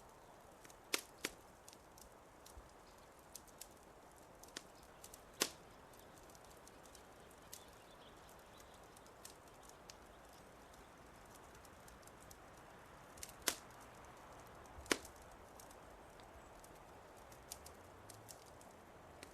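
Wood fire crackling: scattered sharp pops and snaps, a few much louder than the rest, over a faint steady hiss.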